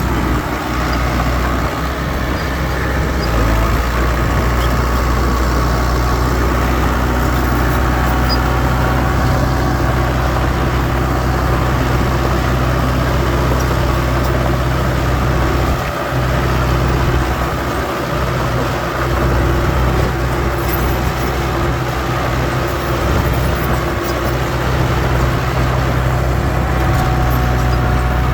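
Heavy diesel earthmoving machinery running steadily: a continuous, loud, low engine drone.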